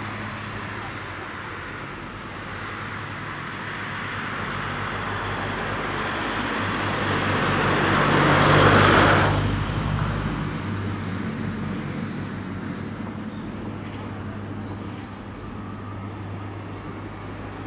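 A car passing close by: its tyre and engine noise builds for several seconds, peaks about nine seconds in, then falls away quickly, over a steady low hum.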